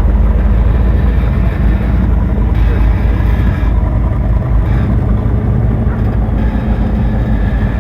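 Car engine and exhaust running steadily with a low, deep note as a car drives past.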